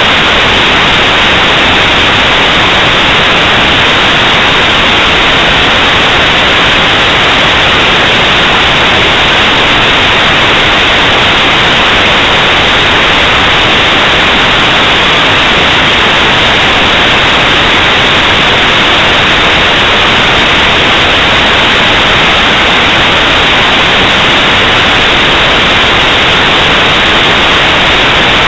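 Loud, steady static hiss, unchanging throughout with no other sound in it.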